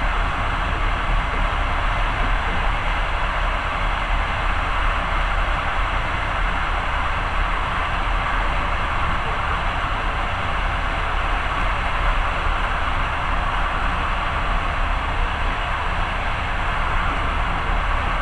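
Passenger train running at speed, heard from inside the carriage as a steady rumble and rushing noise.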